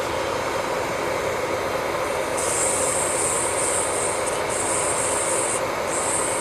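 Electric nail drill running steadily while its bit grinds gel polish off a nail, a high grinding hiss coming and going in stretches with short breaks from about two and a half seconds in.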